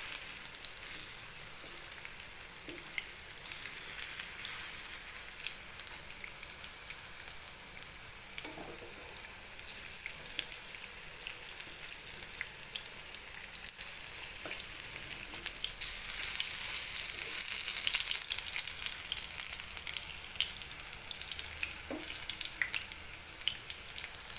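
Gram-flour-battered bok phool fritters deep-frying in hot oil in a frying pan: a steady hissing sizzle with fine crackles, swelling louder at times as the fritters are turned over.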